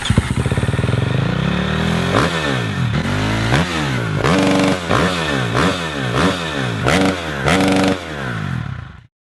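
Dirt bike engine revving hard, its pitch swinging up and down about twice a second as the throttle is worked on and off, then cut off suddenly near the end.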